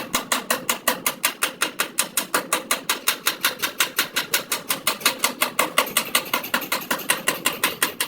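Rapid, even tapping, about eight sharp strikes a second, typical of a tool working sheet metal.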